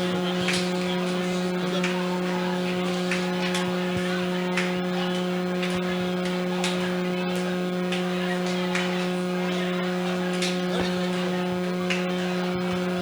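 Steady electrical hum, a low buzz with its overtones, with a few faint ticks over it.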